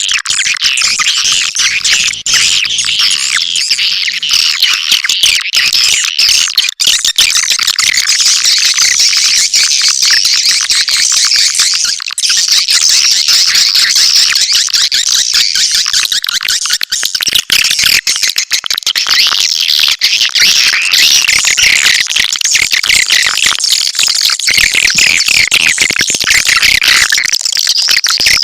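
Swiftlet lure recording: a dense, continuous chorus of high-pitched swiftlet chirping and twittering, the calling sound played to draw swiftlets into a nesting house.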